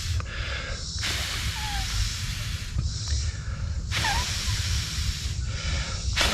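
A person blowing long breaths into a newly lit Dakota fire pit to feed the fire, each breath a steady hiss lasting a second or so, about every three seconds. Faint bird chirps and a low rumble run underneath.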